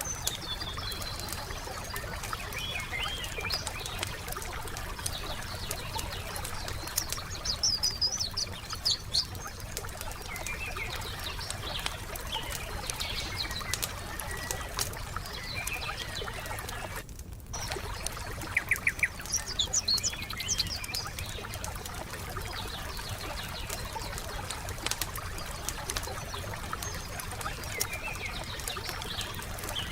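Wood fire crackling with a steady scatter of small pops and snaps, while songbirds chirp and trill in short phrases every few seconds.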